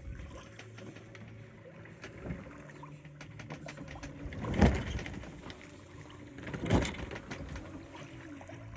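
Sailboat under way at sea: water rushing and slapping along the hull over a steady low rumble with light ticks. There are two louder surges, about four and a half seconds in and again about two seconds later.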